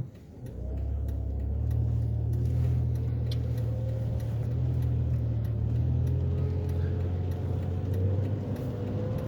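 A car driving along: a steady low rumble of engine and road noise that comes up about half a second in and holds.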